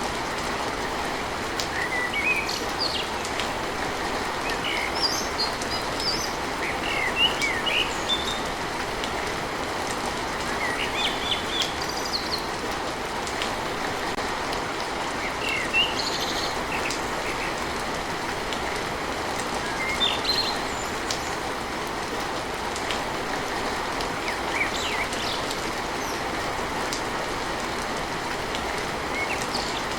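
Steady rain on a tin roof, with birds chirping in short calls every few seconds over it.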